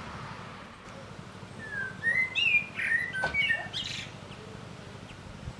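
A songbird singing one short phrase of clear, sliding whistled notes, lasting about two seconds and starting about a second and a half in, over a faint steady hiss.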